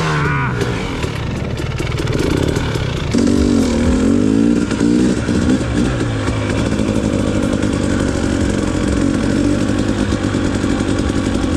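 Two-stroke dirt bike engine running on the trail. The revs rise and fall a couple of times in the first few seconds, then hold steadier.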